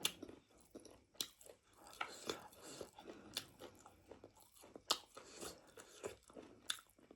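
A person chewing meat with skin on it, wet mouth sounds broken by a string of sharp crunching clicks at irregular intervals.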